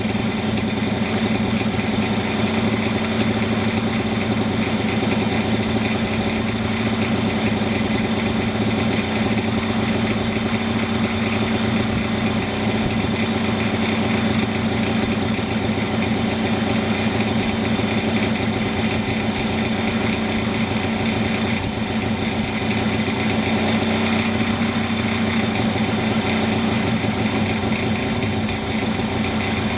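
Piaggio Ciao moped's small single-cylinder two-stroke engine idling steadily at an even pitch.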